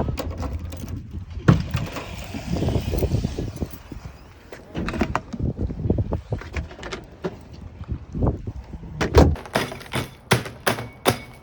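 Irregular knocks and thunks of dry ice being struck and knocked about in a plastic bucket, coming sharper and closer together over the last couple of seconds.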